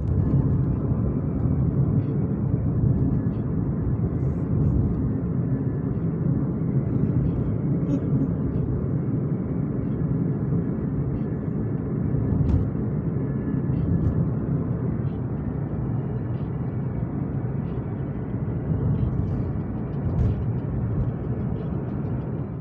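Steady low rumble of a moving vehicle, with faint light ticks now and then over it.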